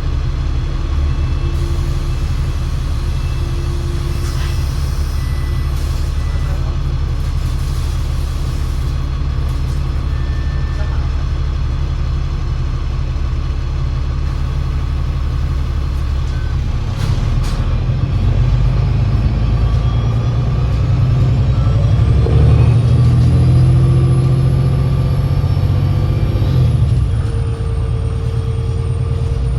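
Alexander Dennis Enviro500 MMC double-decker bus with a Voith 864.5 automatic gearbox, heard on board: the diesel engine idles steadily, a short hiss of air comes about halfway through, then the bus pulls away, engine and drivetrain whine rising in pitch, and the pitch drops suddenly near the end at a gear change.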